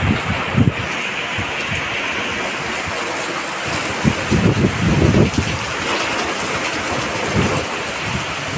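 Heavy monsoon rain pouring steadily, with gusts of wind buffeting the microphone, strongest around the middle.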